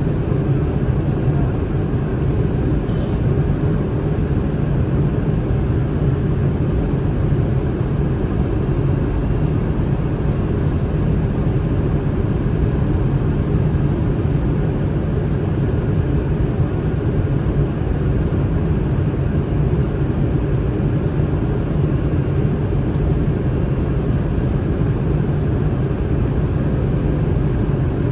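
Steady cabin noise inside an Airbus A319 in flight: the even low rumble of its CFM56 engines and the rush of air along the fuselage.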